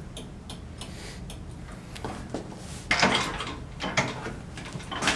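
Kick-starter of a 1968 Ducati 250 single being kicked, with clunks in the second half as the engine turns over stiffly against its high compression without firing.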